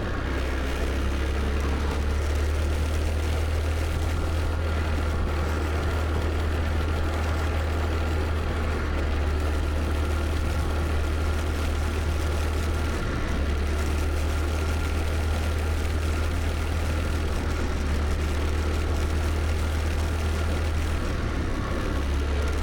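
Scooter engine running steadily on the move, with a strong, even low rumble throughout.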